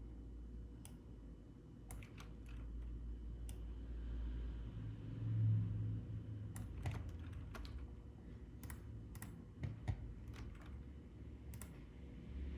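Faint computer keyboard keystrokes and clicks, scattered and irregular, some in quick clusters, over a low hum. A low bump comes about halfway through.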